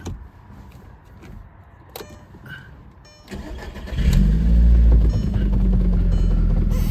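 Audi TT Mk1 engine cranking and catching a little over three seconds in. It runs loudest for about a second after it catches, then settles into a steady idle. A few light clicks come before it.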